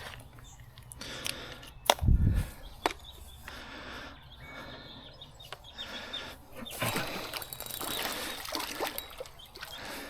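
Handling noise and rustling as someone moves about and handles gear. There is a sharp knock and a brief low thud about two seconds in, scattered clicks, and a longer spell of rustling from about seven to nine seconds.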